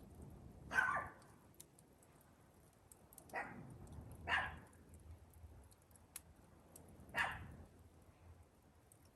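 Four short animal calls, each well under half a second: one about a second in, two close together a little after the middle, one more near the end. Faint scattered pops and crackles from a campfire lie beneath them.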